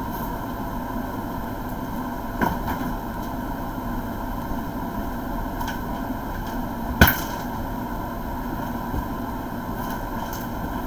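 Knocks from packaging being handled and moved, a light one about two and a half seconds in and a sharp, louder one about seven seconds in, over a steady room hum.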